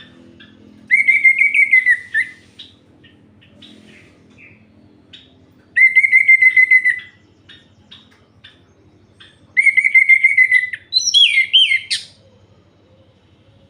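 Orange-headed thrush (anis merah) singing: three loud phrases of fast repeated notes, the last ending in a quick up-and-down flourish, with faint short calls between them.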